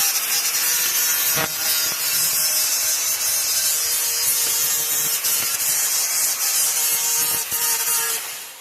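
Angle grinder grinding metal: a loud, steady grinding hiss with a held whine, cut off about a second before the end and spinning down. It is grinding a bare spot for the welder's ground clamp.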